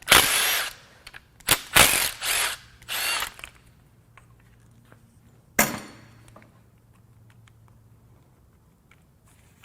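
Power tool running in four short spurts, backing out the bolts of the timing-chain tensioners on a 4.6L DOHC Ford V8, followed about five and a half seconds in by a single sharp knock.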